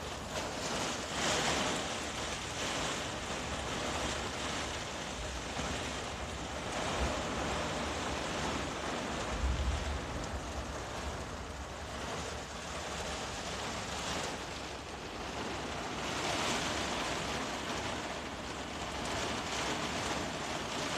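Heavy rain pouring down on a camper van, heard from inside it, with strong wind. It is a steady hiss that swells and eases every few seconds, with a low thud or two about seven and nine seconds in.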